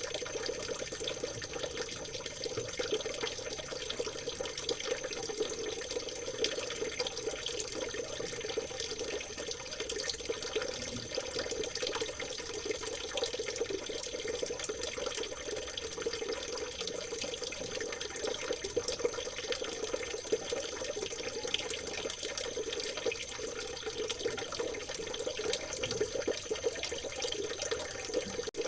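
Steady trickling and babbling of stream water, an even, unbroken flow with no pauses.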